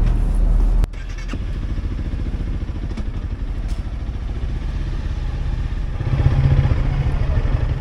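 Honda CRF300L Rally's single-cylinder engine running with a fast, even low pulse, growing louder about six seconds in. A steady low rumble before it stops abruptly a little under a second in.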